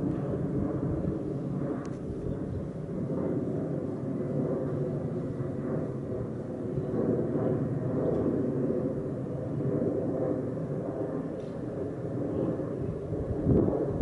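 Airplane passing overhead, its engines making a steady, distant low rumble that slowly swells and fades. A brief louder low thump comes near the end.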